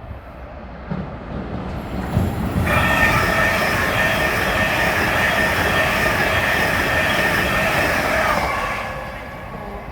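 A train moving through the station with a low rumble, and a loud, steady, high-pitched metallic squeal from about three seconds in that fades out a little before the end.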